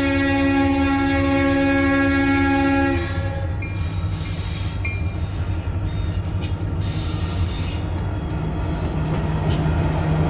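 Freight diesel locomotive's Leslie RS5T multi-chime air horn sounding one loud chord for about three seconds, then cutting off. The locomotive's engine and the rolling train rumble on steadily, with brief high-pitched screeches from the wheels a few seconds later.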